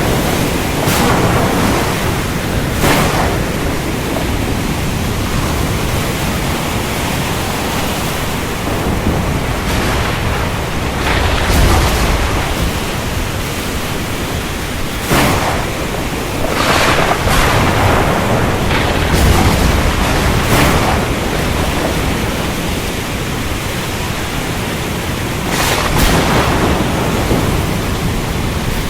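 Thunderstorm with steady heavy rain. Thunder rumbles low about twelve seconds in and again around twenty seconds, and scattered sharp cracks break through the rain.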